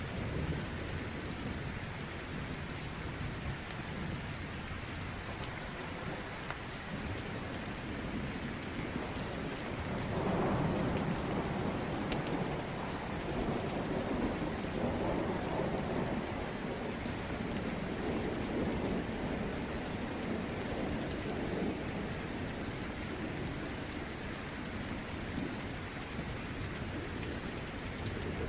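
Steady rain falling, with a long low rumble of rolling thunder that swells about a third of the way in and fades over roughly ten seconds.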